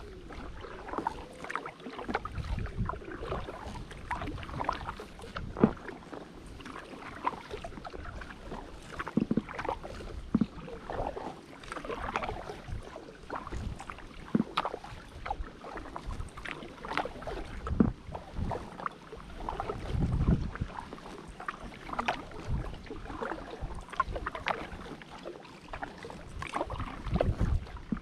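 Kayak paddle strokes: the blades dip and splash in the water again and again, about every second or two, with drips and gurgles between strokes.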